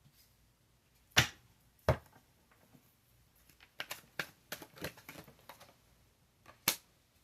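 Tarot cards being handled, making a scatter of sharp clicks and taps. Two loud snaps come in the first two seconds, then a quick run of lighter clicks, then one more loud snap near the end.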